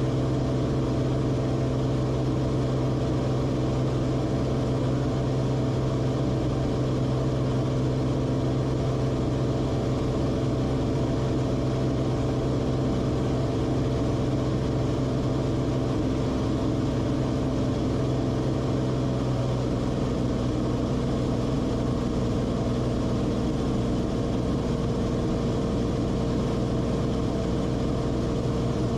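Steady drone of the Cessna Corvalis TTX's turbocharged six-cylinder engine and propeller. A little past halfway through, its tone shifts slightly.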